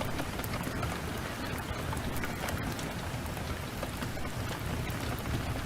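Heavy downpour: a steady hiss of rain with a low rumble underneath and many small, sharp ticks scattered through it.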